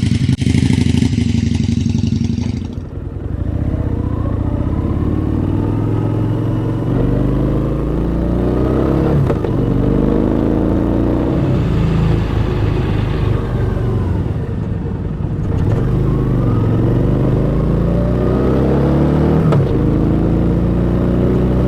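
Harley-Davidson V-Rod's V-twin with a Screaming Eagle exhaust and airbox, running and being revved, its pitch rising and falling several times. A loud rasp marks the first couple of seconds.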